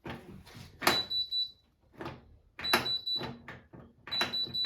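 Hotpoint WMFUG942 washing machine's control panel beeping three times as its buttons are pressed to set up a cycle. Each beep is a short high tone, and sharp clicks and knocks of the buttons and panel come in between.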